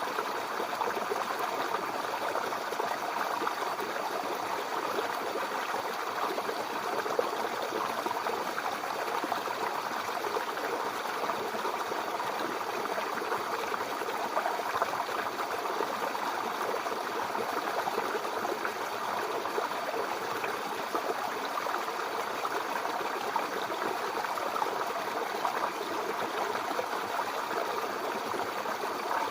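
Babbling brook: shallow water running and burbling over stones, steady and unbroken.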